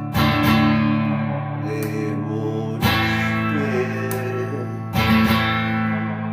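Guitar music: chords strummed about every two seconds, three times, each left ringing.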